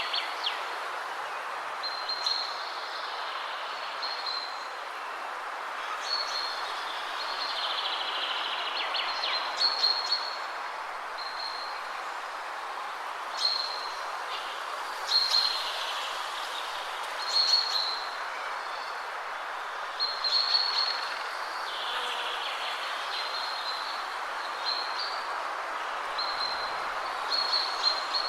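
Steady wind rushing through trees, with a songbird singing short, high phrases over it every couple of seconds, some ending in a quick trill.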